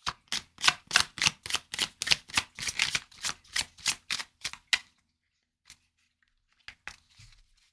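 Deck of tarot cards being shuffled by hand: a quick run of crisp card snaps, about four a second, stopping a little before five seconds in, then a few scattered taps near the end.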